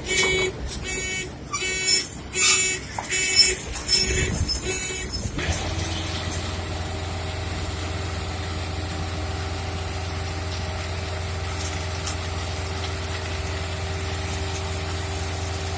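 A run of loud, repeated beeps or horn toots for about the first five seconds, then a heavy engine running steadily at an even pitch on the road-construction site.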